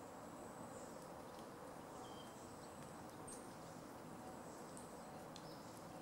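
Faint natural ambience: a steady high-pitched insect trill, with a few brief, faint high bird notes scattered through it.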